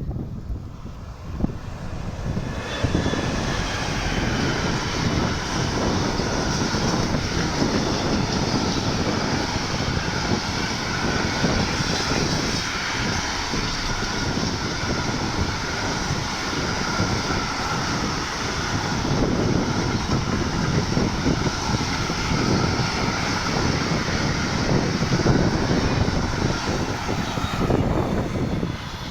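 A train passing on the line, its wheels rolling on the rails in a loud, steady rush with faint ringing tones. It sets in about two seconds in and lasts some twenty-five seconds before dropping away near the end.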